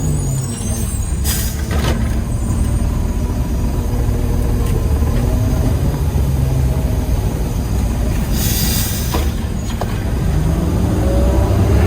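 Diesel engine of a Peterbilt 320 garbage truck running steadily, heard from inside the cab. Air hisses in two short bursts, about a second and a half in and again around eight seconds, typical of the truck's air brakes.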